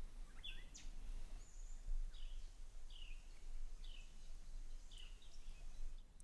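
A songbird singing a run of short, downward-slurred chirps, repeated about every two-thirds of a second, over a steady low outdoor rumble.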